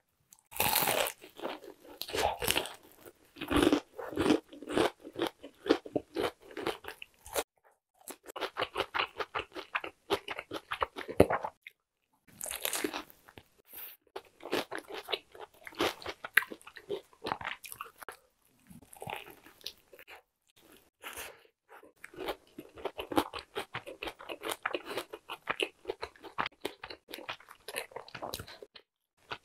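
Biting into and chewing a crispy fried-chicken burger, with the breaded fillet crunching and crackling between wet chews. There are short pauses in the chewing, about eight and twelve seconds in.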